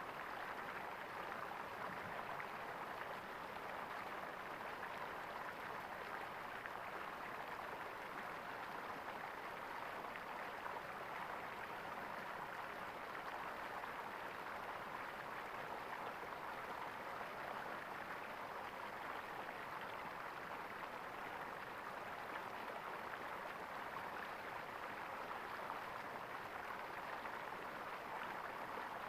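Flowing water gurgling steadily, an even rushing with no pauses.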